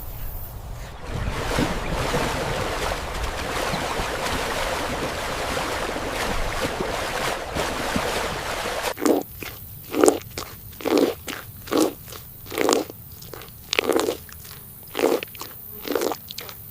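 An animal chewing and crunching food: a dense, continuous crackling munch, then from about nine seconds in a run of separate crunchy bites.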